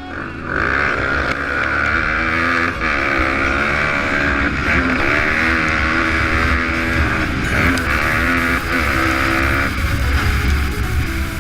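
Pit bike engine running hard, its pitch repeatedly rising and falling as the throttle is worked, with a steady rushing hiss over it.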